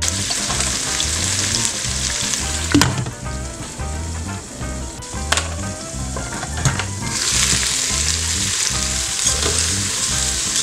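Sliced onions, jalapeños and smoked turkey tails sizzling in olive oil in an electric pressure cooker's inner pot on sauté, with a few sharp knocks of the lid and utensil. The sizzle grows louder about two-thirds of the way through, and a spoon stirs the pot near the end.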